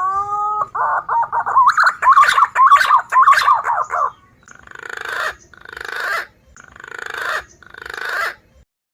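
Lure recording of wild punai (green pigeon) calls: a rising whistled note that runs into fast warbling whistles for about four seconds, then four harsh rasping calls about a second apart, each swelling louder.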